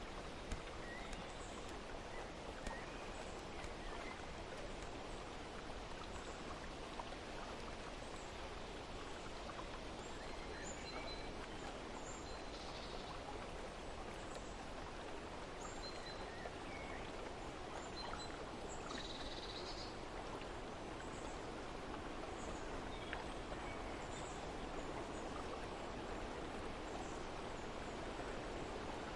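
Steady rush of flowing water with scattered short, high bird chirps over it.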